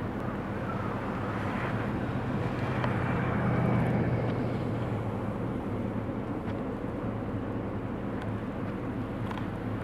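Car engine hum and road noise heard from inside the car while driving on snow, swelling a little about three to four seconds in.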